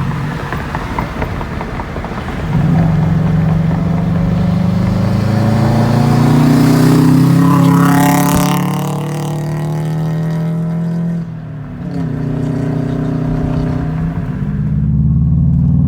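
Subaru WRX's turbocharged flat-four running through an aftermarket eBay exhaust, accelerating hard: the engine note climbs in pitch for several seconds, dips briefly about eleven seconds in as it shifts, then pulls again.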